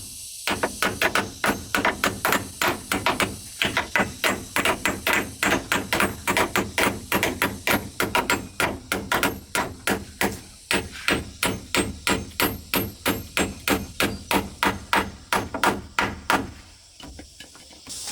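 Rapid, even blows of a hand tool, about four a second, each a sharp knock; they stop about a second and a half before the end.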